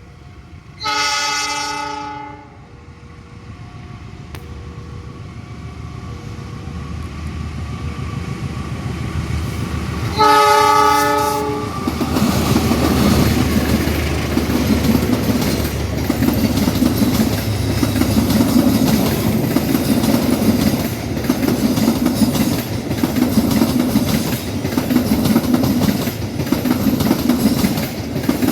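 Train horn sounding two short blasts, about a second in and again about ten seconds in, as an approaching train's rumble grows louder. From about twelve seconds in the train passes close by, its wheels clattering over the rail joints in a rhythmic beat that swells about every two seconds.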